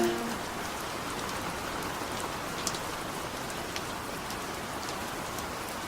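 Steady rain falling, with now and then a sharper drop tick. The last note of a song dies away in the first moment.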